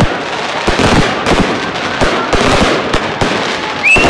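Fireworks going off: a quick run of sharp bangs, a couple a second, with a dense crackle between them.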